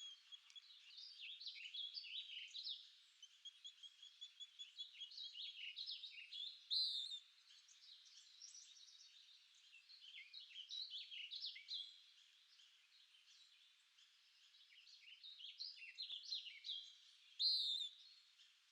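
Several wild birds singing and chirping in a continuous overlapping chorus, with quick repeated notes that swell and fade in phrases. Twice, a louder, higher call cuts through.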